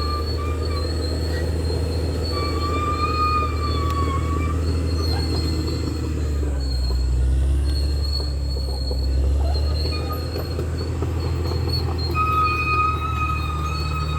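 Bulldozer's diesel engine running with a steady low rumble that grows heavier around the middle, with a high-pitched squeal from the steel tracks coming and going over it.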